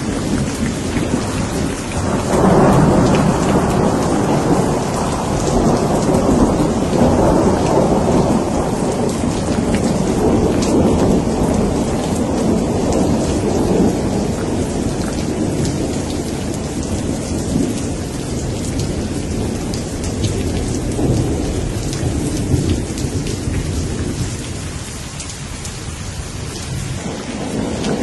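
Steady heavy rain hissing, with a long rolling rumble of thunder. The rumble swells about two seconds in, slowly dies away, and builds again near the end.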